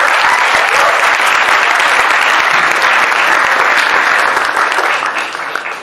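Audience applauding loudly in a hall at the end of a comedy set, a dense steady clapping that starts suddenly and fades away near the end.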